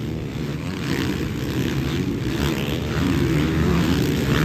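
Motocross bikes racing on the track, engines revving up and down as they pass, growing louder about three seconds in.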